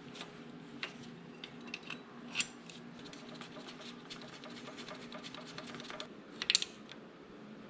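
Hand tools working on metal: a run of quick, light, even ticks in the middle and scattered sharp metallic clicks, the loudest a double click near the end.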